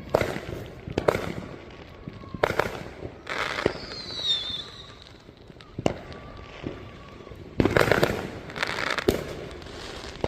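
Fireworks going off: a string of sharp bangs and crackling bursts, irregularly spaced about a second apart, with a short falling whistle about four seconds in.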